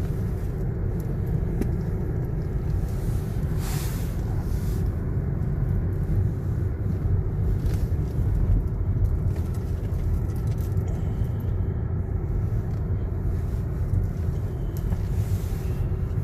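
Car running: a steady low rumble of engine and road noise, with a brief hiss about four seconds in.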